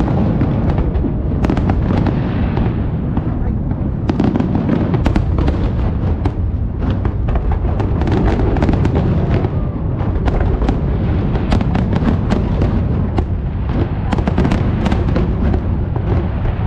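Aerial fireworks display: a dense, unbroken run of bangs and crackles over a constant low rumble.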